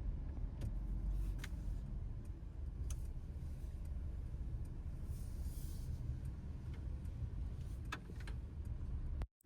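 Steady low rumble of road and tyre noise from a Mercedes-Benz EQE 350 electric car driving, with no engine sound and a few faint scattered clicks. The sound cuts out abruptly for a moment near the end.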